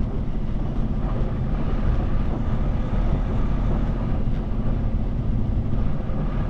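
Peterbilt 389 diesel truck engine running steadily, heard from inside the cab as a constant low rumble.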